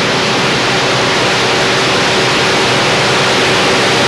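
A steady, loud rushing noise with a faint steady tone running through it.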